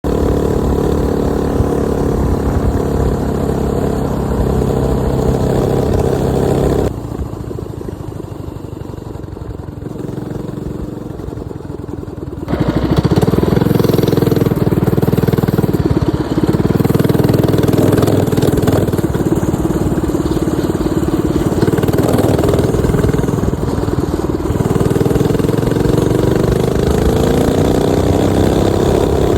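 Minibike's 212cc single-cylinder four-stroke engine running under way. It drops to a quieter, lower note for about five seconds near the middle, then comes back louder, its pitch rising and falling with the throttle.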